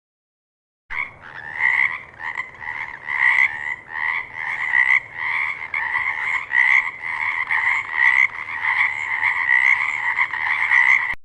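Frog croaking over and over, about two calls a second. The calls start abruptly about a second in and cut off abruptly at the end.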